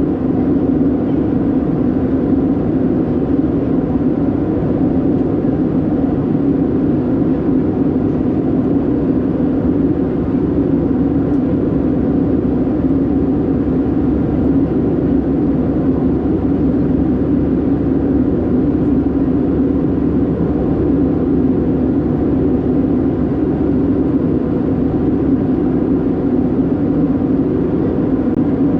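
Steady cabin drone of an Airbus A319-112 with its CFM56 engines running, heard from inside the passenger cabin: an even, unbroken engine and airflow noise.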